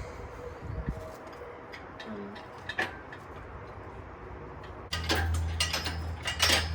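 Hand tools working on the engine bay: scattered sharp metallic clicks, then, about five seconds in, a sudden rise to a steady low hum with quick clicking and clanking.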